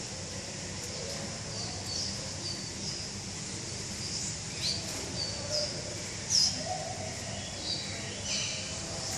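Small birds chirping: scattered short, high chirps, the loudest about six seconds in, over a steady low background hum.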